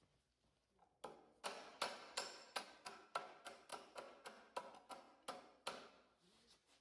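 Light, rapid tapping on wood, about three to four even strikes a second, in a woodworking shop. It starts about a second in and fades out near the end.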